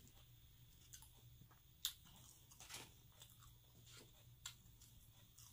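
Faint chewing and mouth clicks of someone eating French fries, a few soft smacks scattered through, the loudest about two seconds in.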